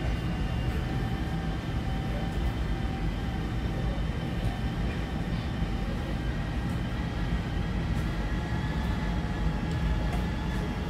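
MTR C-Train electric multiple unit running between stations, heard inside the passenger car. Wheels on rails make a steady low rumble, with several steady tones of traction motor whine above it.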